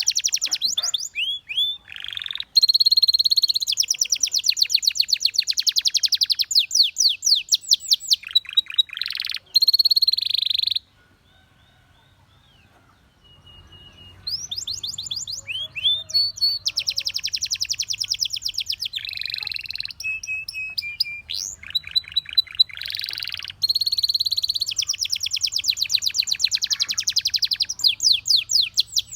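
Domestic canary singing: long, fast trills of rapidly repeated notes, broken by a pause of a couple of seconds about halfway before the song resumes.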